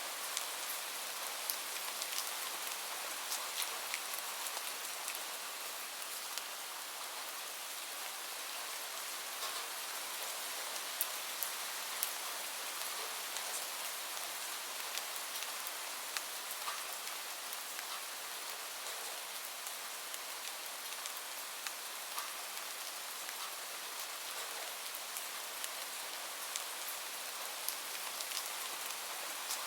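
Steady rain falling, an even hiss with many separate drops hitting a surface.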